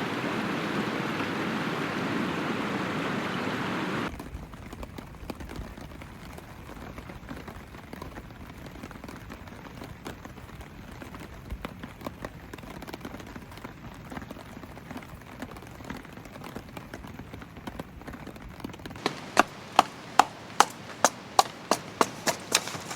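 A steady rush of river water and rain that cuts off about four seconds in, leaving softer rain with scattered drops ticking. Near the end comes a quick run of about a dozen sharp knocks, about three a second.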